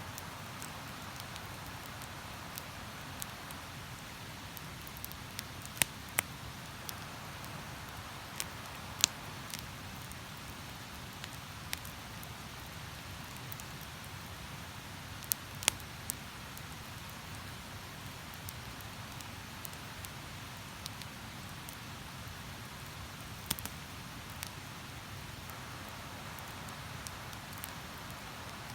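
Wood campfire crackling, with sharp irregular pops every second or two, over a steady rush of running river water.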